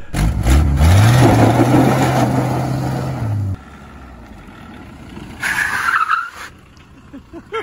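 Car engine revving up and held at high revs, cutting off suddenly about three and a half seconds in. Then a Volkswagen pickup drives up, running more quietly, with a short high squeal near the end.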